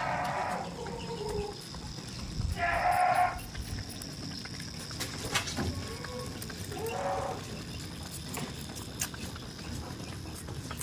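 Goats bleating: three short calls a few seconds apart.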